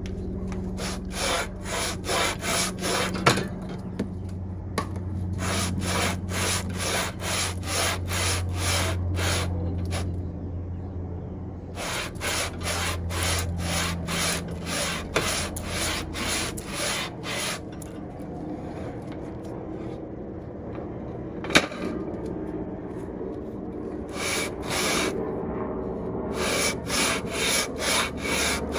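Aluminium cylinder head being rubbed back and forth on WD-40-wetted 120-grit sandpaper over a flat tile, lapping the head's gasket face flat. The rasping strokes come about three a second in several runs with short pauses, over a low hum in the first half and a couple of sharp clicks.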